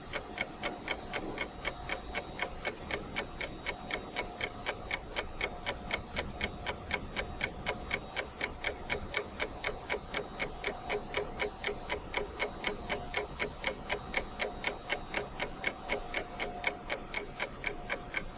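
Clock ticking steadily and fast, about four ticks a second, with a faint hum underneath.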